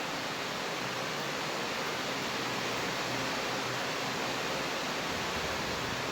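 Steady rain falling: an even, unbroken hiss with no single drops or other events standing out.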